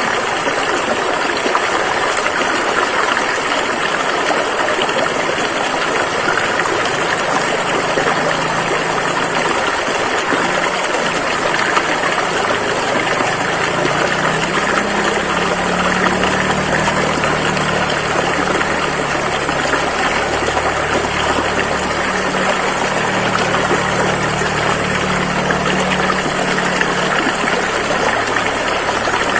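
A fast-flowing river rushing steadily. About halfway through, a low steady hum joins it underneath.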